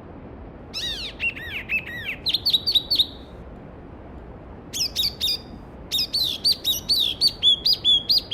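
A songbird singing three phrases of quick, repeated arched notes, the longest near the start and near the end, over the steady rush of a mountain stream.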